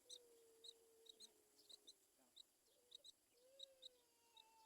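Faint bird calls: repeated short high chirps, a few each second, over a long low drawn-out note in the first two seconds and a shorter one later.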